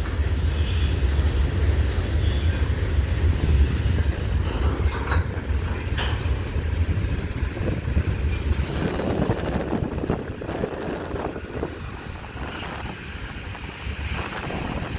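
Freight cars of a long CN freight train, gondolas and tank cars, rolling past over the rails with a steady low rumble, a few knocks from the wheels and couplers, and a brief high wheel squeal about nine seconds in. The rumble eases after about ten seconds.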